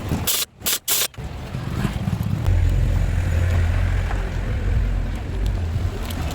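A car engine running steadily with a deep, low rumble that comes in strongly about two and a half seconds in, after a few abrupt cuts in the sound.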